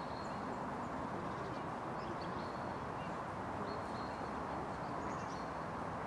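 Steady outdoor background noise, with a few faint short high chirps now and then.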